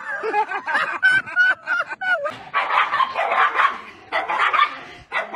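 Small dog barking. Wavering pitched cries for about the first two seconds, then quick runs of rough yaps.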